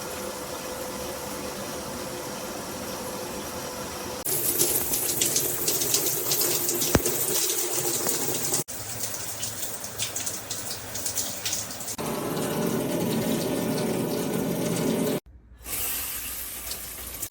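Water running and spraying from a handheld shower head, a steady hiss that changes abruptly several times where short clips are cut together.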